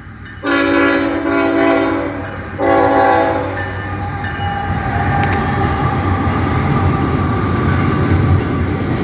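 Train horn sounding two blasts, a long one and then a shorter one, followed by the steady rumble of the train running past.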